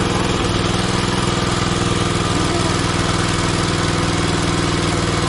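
Engine running steadily at an even speed, with no change in pitch or level.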